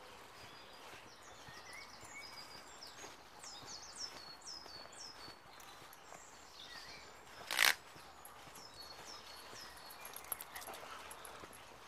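A songbird singing twice in phrases of quick, high, down-slurred chirps, over a steady outdoor background with faint footsteps on a dirt path. A short, loud burst of noise about two-thirds of the way through is the loudest sound.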